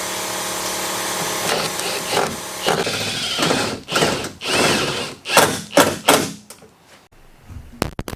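Handheld power tool running steadily with a whine, then triggered in a quick series of short bursts that spin up and wind down. A few sharp clicks follow near the end.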